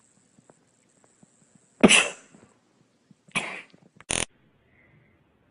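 Three short explosive breath sounds, coughs or sneezes: a loud one about two seconds in, a second a moment later, and a quick rattling third one soon after.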